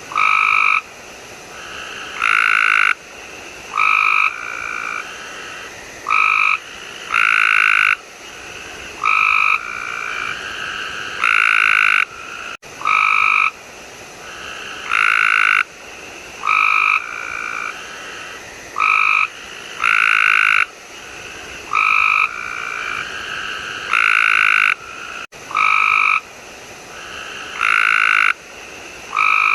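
Frog croaking over and over, short calls mixed with longer ones about once a second, each call with two clear pitched bands. The run of calls starts over about every 12½ seconds, like a loop.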